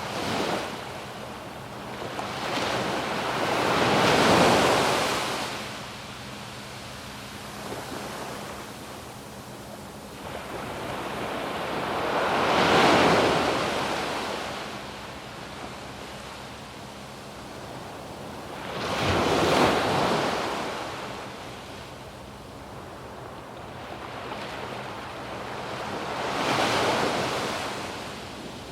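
Waves breaking on a sandy beach: four surges, each swelling up and washing away, about seven seconds apart, over a steady hiss of surf.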